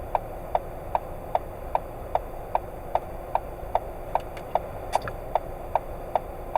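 Car turn-signal indicator ticking steadily inside the cabin, about two and a half clicks a second, over low road noise.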